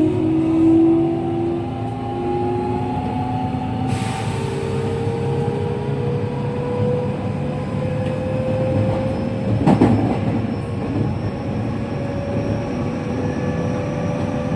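Inside a JR West 207 series commuter train: the traction motors and inverter whine over wheel and rail noise. About four seconds in the tones shift and then slowly rise in pitch as the train gathers speed, and a single sharp knock comes about ten seconds in.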